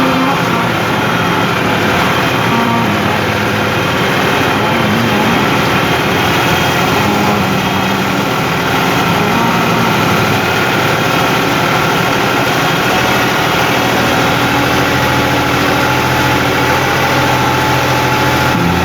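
New Holland 55-56 S tractor's diesel engine running steadily at an even pitch.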